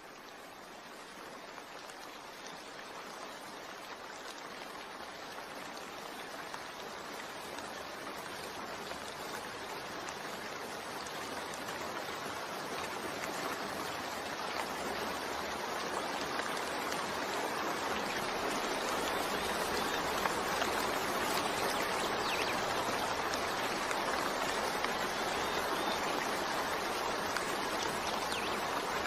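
Steady rain with scattered drop patters, fading in gradually over the first twenty seconds and then holding level.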